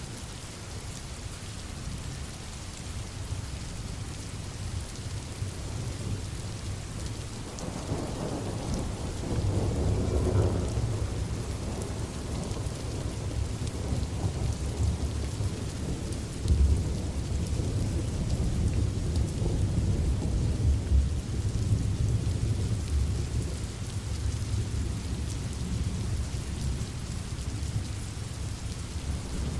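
Steady rain with rolling thunder: a deep rumble builds about seven seconds in and keeps swelling and fading through the rest.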